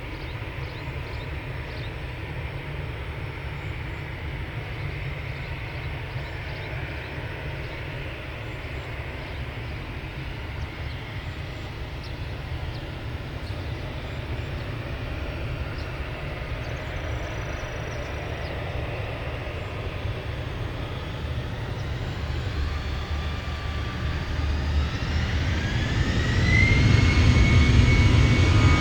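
Jet airliner engines running with a steady low rumble that grows louder over the last few seconds. A whine rises in pitch and then holds steady near the end.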